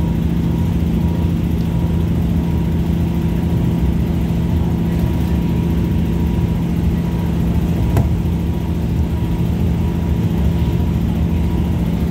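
Steady drone of an Irish Rail 2800 Class diesel multiple unit running at speed, heard from inside the carriage, with a steady low engine hum. A single sharp click about eight seconds in.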